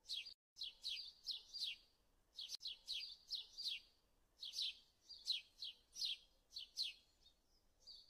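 A small bird chirping over and over: short, high chirps that sweep downward, two or three a second, in runs with brief pauses between them.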